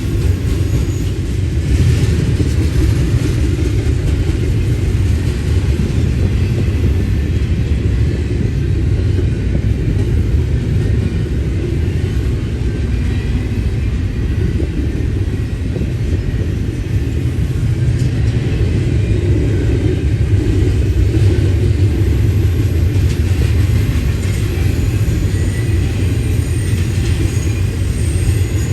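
Freight train rolling past on the main line: a steady, loud low rumble of wheels and cars on the rails.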